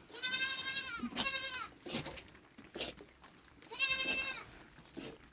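Goat bleating: three calls, two back to back at the start and a third about four seconds in.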